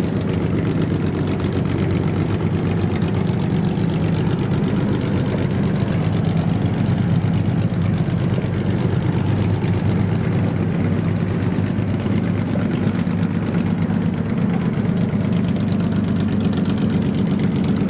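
Engine of a customised old Japanese car (kaido racer) idling steadily, with no revving.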